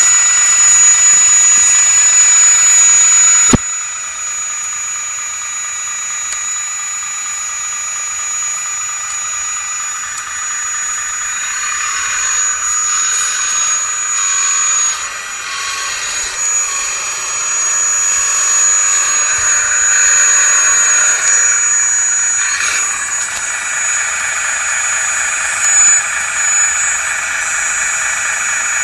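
Hydraulic pump and electric motors of a 1/16-scale full-metal RC wheeled excavator, a steady high-pitched whine. It is loud for the first few seconds, then drops with a click and runs quieter, its pitch and loudness shifting through the middle as the hydraulics work.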